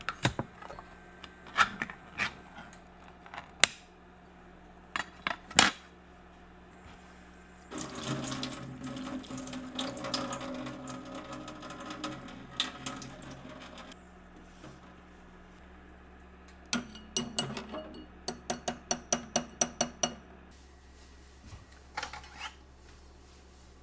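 Kitchen sounds: a few scattered knocks and clicks, then a tap running for about six seconds in the middle. After it comes a quick, even run of about a dozen sharp knocks.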